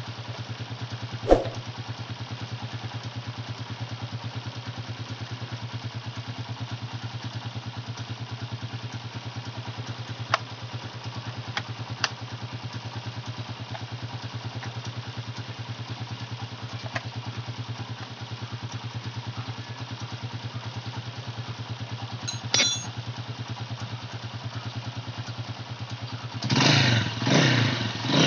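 Honda TMX 155 single-cylinder four-stroke engine idling steadily, started without the key by disconnecting the two black ignition-switch wires. A sharp knock about a second in and a few light clicks come from the headlight cowling being fitted, and near the end the engine note rises and falls.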